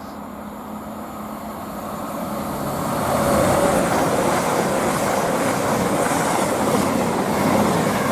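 A CrossCountry Class 220 Voyager and Class 221 Super Voyager diesel multiple unit pair passing through the station. The noise of engines and wheels grows over the first three seconds, then stays loud and steady as the train runs by.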